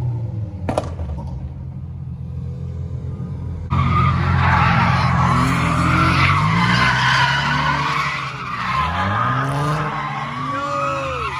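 A car engine rumbling, then about four seconds in a sudden loud tyre squeal as a car drifts, its engine revving up and falling back again and again under the screeching.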